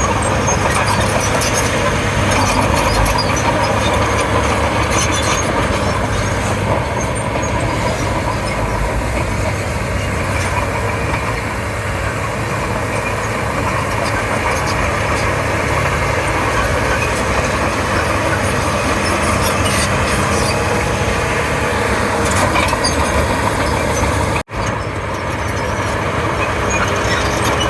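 Komatsu D31P crawler bulldozer's diesel engine running steadily as the machine works. The sound cuts out for an instant about 24 seconds in.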